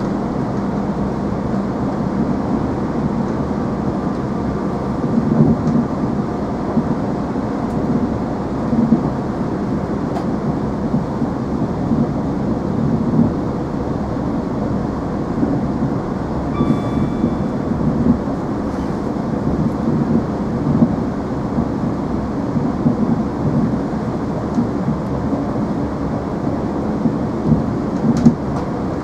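Cabin noise of a Chiltern Railways Class 165 diesel multiple unit running at speed: a steady low rumble of wheels on rail and the underfloor diesel engine, with irregular louder knocks from the track.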